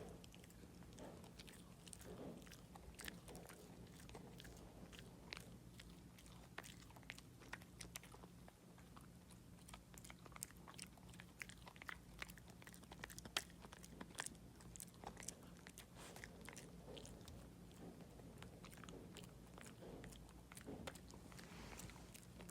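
A dog chewing and crunching a treat: faint, irregular crunchy clicks, often several a second.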